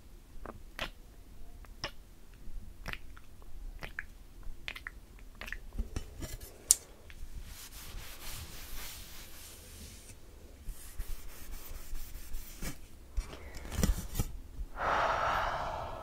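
Close-miked ASMR mouth sounds: a scattered run of wet clicks and smacks, with stretches of soft rubbing hiss in the middle and a breathy blow near the end.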